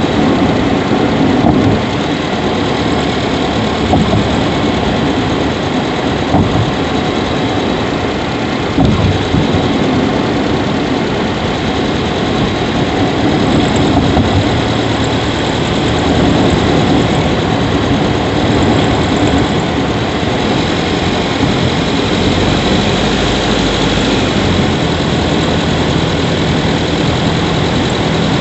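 Subaru Levorg 1.6GT-S's turbocharged flat-four heard from inside the engine bay near the intake, running steadily while driving. Faint high squeaks come and go around the middle: the 'kyuri' noise of unknown cause that grows louder after about ten minutes of driving.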